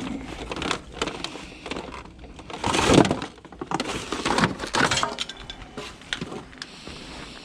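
Irregular clattering and cracking of discarded junk being pulled apart and rummaged through by hand, with sharp clinks; the loudest crack comes about three seconds in, with another rattle of clatter about four and a half seconds in.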